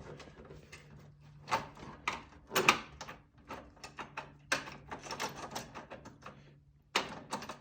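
Irregular metallic clicks and knocks of a bolt, washer and spacer being handled and fitted to an adjustable camber/caster strut mount plate, over a faint steady hum.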